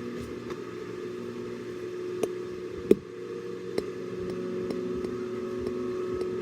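A steady motor hum with light, regular ticks about twice a second and one sharper tick about three seconds in.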